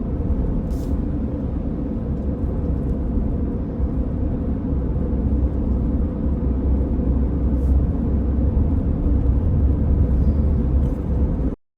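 Steady road and engine rumble of a moving minivan heard from inside the cabin; it cuts off suddenly near the end.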